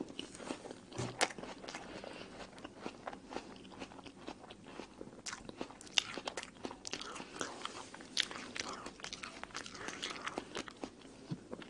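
Close-miked chewing of a mouthful of apple: irregular crunches and mouth clicks, with a few louder crunches, about a second in and about six seconds in.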